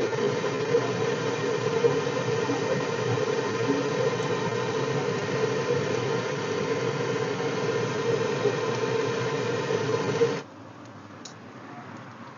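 A steady mechanical hum like a small motor running, with a strong low-mid tone, that cuts off suddenly about ten seconds in.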